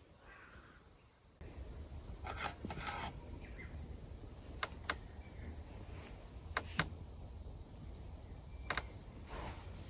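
Small handling sounds: some rustling and a few sharp clicks or clinks over a steady low rumble that starts about a second and a half in.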